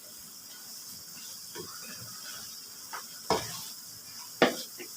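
Thin strips of liver frying in oil in a pan with a steady sizzle, while a spoon stirs and knocks against the pan a few times, most sharply about three and four and a half seconds in. The oil is starting to separate from the meat, a sign it is nearly cooked.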